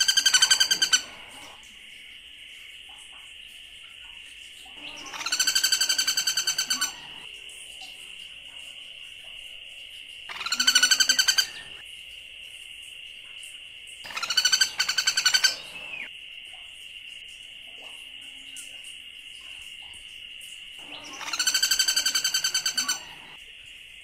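A bird calling in five loud phrases of one to two seconds each, every four to six seconds, each phrase a fast trill. A steady high insect drone runs underneath.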